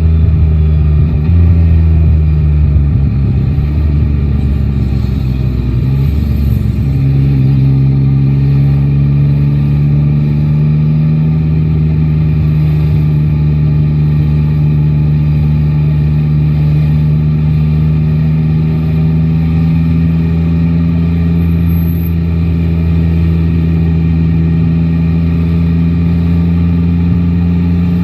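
Yamaha Tracer 9 GT's inline-three engine running under a rider in city traffic. Its revs shift up and down for the first several seconds, then it settles into a steady cruise with the engine note creeping slowly higher.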